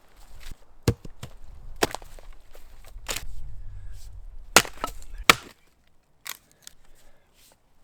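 An axe chopping wood, with about five hard strikes at uneven intervals and a few lighter knocks between them.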